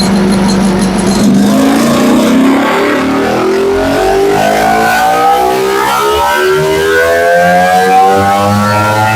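Ducati Panigale V4 SP2's 1103 cc V4 engine, breathing through a full titanium Akrapovic exhaust, held steady and then pulling hard on a dyno from about a second in, its revs climbing steadily under load.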